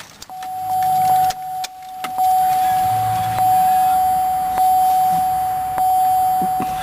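GMC Envoy's warning chime sounding before the engine is started: one steady high tone, renewed with a click about every second and a quarter, with a brief break near the two-second mark.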